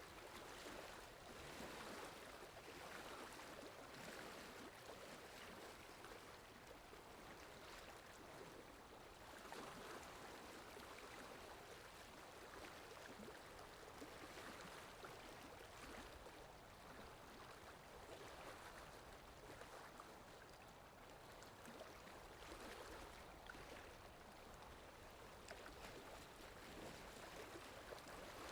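Faint water sound effect: steady flowing water that swells and eases every few seconds.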